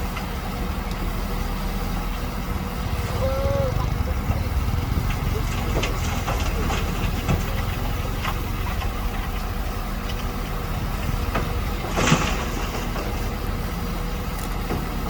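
Shantui DH17C2 bulldozer's diesel engine running steadily, with scattered short clanks and knocks and one louder knock about twelve seconds in.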